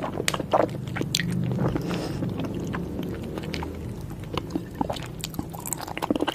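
Close-miked mouth sounds of someone eating soft-boiled egg: wet chewing, with many short clicks and squishes over a low steady hum.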